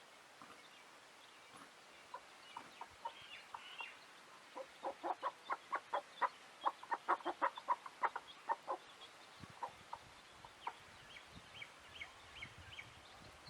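Birds calling: a rapid run of about twenty pitched call notes, roughly five a second, through the middle, with thin high chirps before and after.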